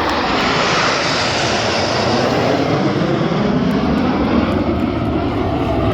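Aircraft flying past, its engine noise loud and steady.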